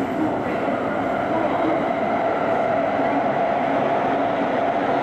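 Electric commuter trains running past on the tracks, a steady rush of wheels on rail with a constant humming tone, growing a little louder about a second and a half in.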